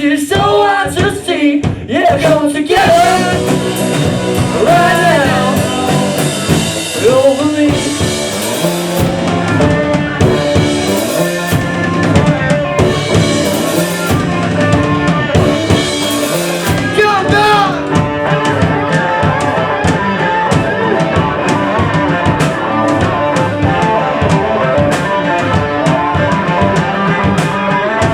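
Rock band playing live, with a drum kit driving the beat under bass and guitar.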